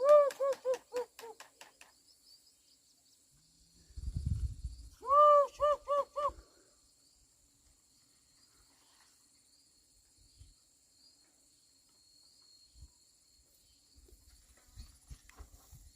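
An animal giving quick runs of short, arched calls, about five a second: one run at the start and another about five seconds in. A low rumble comes just before the second run.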